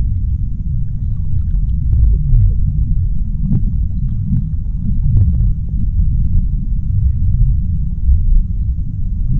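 Deep-sea underwater ambience: a steady low rumble, with faint scattered clicks and ticks over it.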